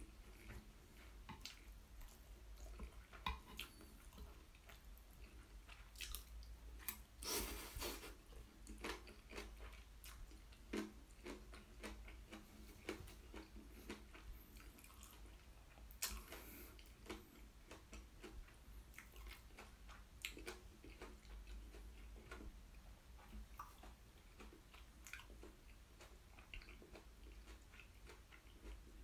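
Faint close-miked chewing of black bean instant noodles and green onion kimchi: soft wet clicks and smacks of a closed mouth at irregular moments, a little louder about a quarter of the way in and again around the middle.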